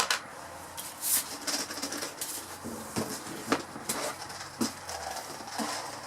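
Scattered light clicks and knocks, about half a dozen at irregular spacing, as small nails are shaken and tapped out of a vacuum hose attachment.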